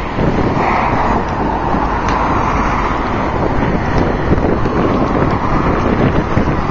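Blizzard wind buffeting the microphone over the steady rumble of road traffic.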